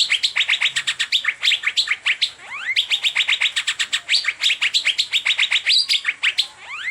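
Asian fairy-bluebird (cucak biru) singing in the fast 'teler' style: rapid runs of sharp repeated chips, about ten a second, broken twice by a rising whistled upslur.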